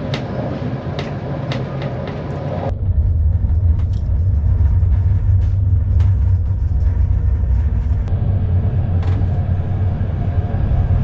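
Sleeper train running on the rails: a steady rumble with sharp clicks for the first few seconds, then a sudden change to a louder, deeper rumble from about three seconds in.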